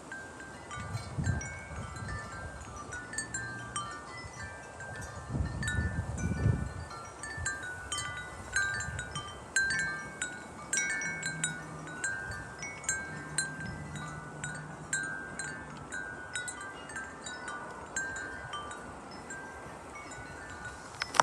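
Wind chimes ringing in gusty wind, struck irregularly with many overlapping tones. Wind rumbles on the microphone in gusts about a second in and again around five to seven seconds in.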